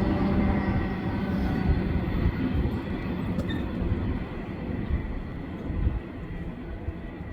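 Freight train rumbling by on the rails, its sound fading steadily as it moves away.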